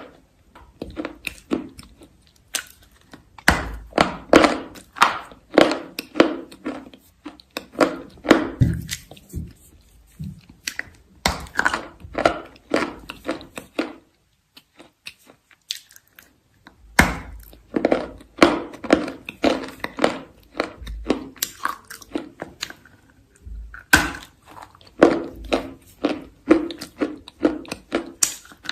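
Chalk crunching in quick, crisp crunches, several a second, broken by a silent gap of about three seconds in the middle.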